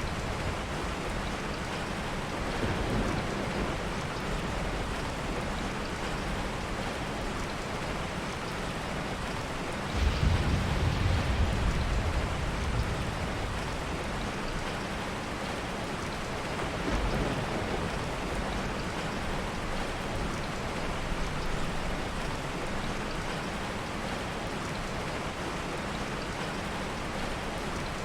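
Steady heavy rain, with a low rumble of thunder that comes in suddenly about a third of the way through and fades over a few seconds.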